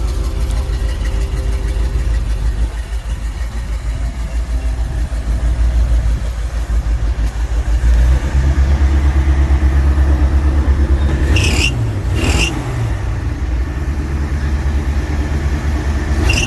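A car engine running with a low, pulsing rumble that gets louder about halfway through. Two short, sharp, high-pitched sounds come close together a few seconds later, and another comes near the end.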